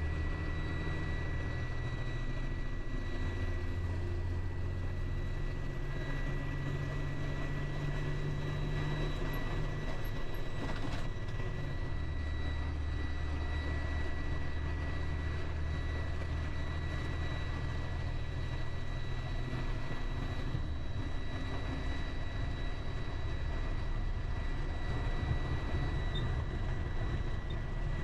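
Delivery truck's engine and road noise heard from inside the cab while driving: a steady low drone that shifts in pitch a few times as engine speed changes, with a thin steady high whine above it.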